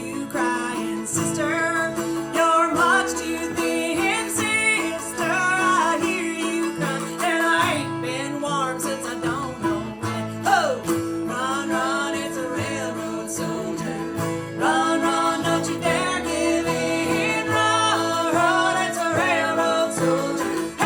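Bluegrass band playing live on acoustic string instruments, a melody line bending and sliding over a steady accompaniment.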